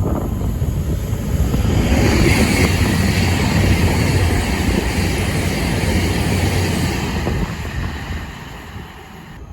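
A train passing by, a steady rumble and hiss that fades away about eight seconds in.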